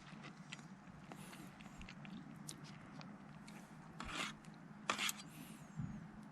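Scattered small clicks and knocks, with a brief scrape about four seconds in and a sharper knock just before five seconds, over a low steady hum.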